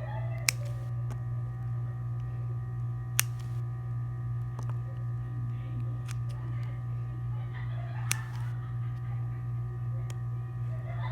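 Steady low hum with a few fainter steady tones above it, broken by three sharp clicks: about half a second in, about three seconds in, and about eight seconds in.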